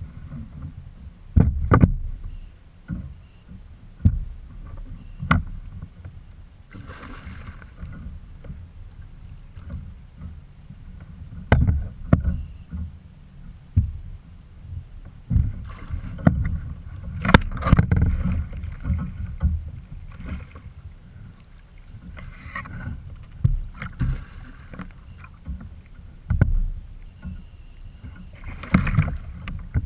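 Water splashing and sloshing around a kayak, with irregular sharp knocks and clunks against the hull.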